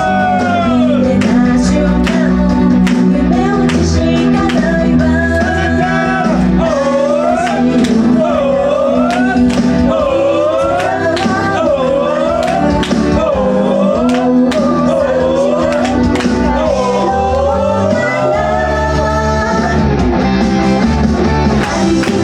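A woman singing a pop-rock song live over a loud band-style backing with drums, bass and guitar. Her sung melody wavers and glides throughout.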